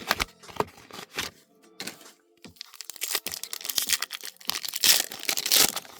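A foil trading-card booster pack wrapper being torn open and crinkled by hand: an irregular run of crackling and tearing, densest and loudest in the second half.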